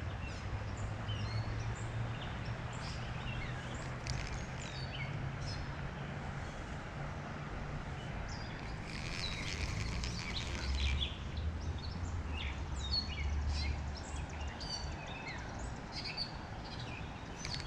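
Songbirds chirping, with many short, often falling calls throughout, over a steady background hiss and low hum of outdoor ambience.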